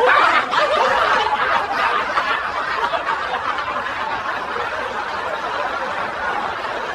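Laughter from a group of people, loudest at the start and then carrying on steadily.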